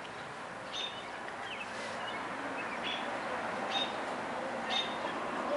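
A bird chirping: short high chirps repeated about once a second, over steady background noise.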